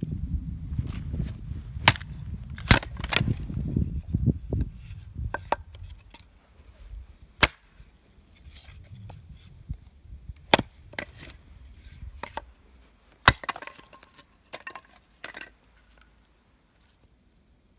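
Firewood being broken up for a campfire: sharp wooden cracks and knocks at irregular intervals, the first few over a low rustle of handling.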